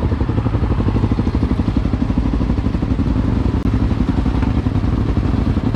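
Enduro motorcycle engine running steadily under way, a fast even pulsing with a strong low rumble.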